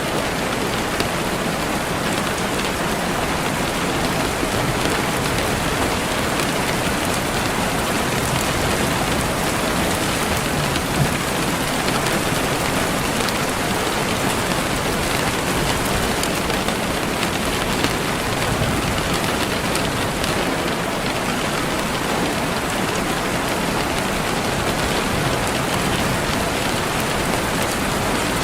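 Steady rain falling and pattering on a surface, with scattered individual drops ticking.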